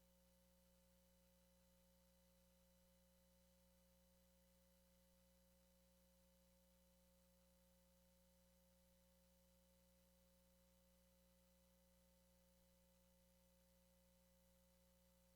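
Near silence with a faint, steady hum of a few constant tones.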